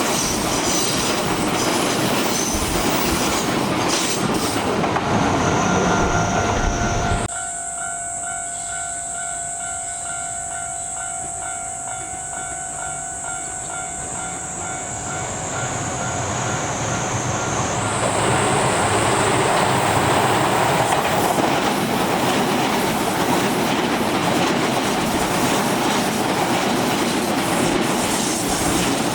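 Electric commuter trains running on the line, wheels clattering over the rails. The noise drops off suddenly about seven seconds in, leaving a quieter stretch with steady high tones. Another train then approaches and passes loudly through the second half; this is the Hokuso 7500 series.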